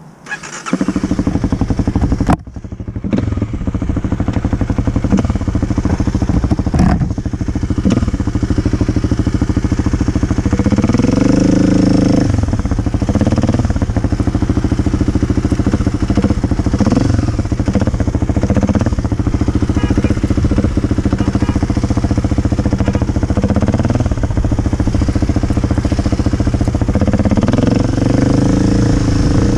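Kawasaki KLX250's single-cylinder four-stroke engine running loud from about a second in as the motorcycle rides a slow maneuvering course. The engine pitch rises and falls several times as the throttle opens and closes.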